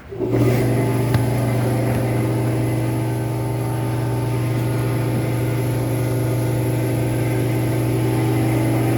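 Workshop air compressor's electric motor kicking on abruptly and running at a steady, loud hum.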